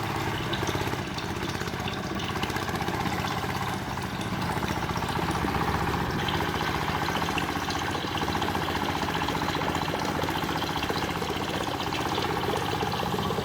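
Small motor of a DIY model tractor running steadily at an even idle, driving a mini water pump.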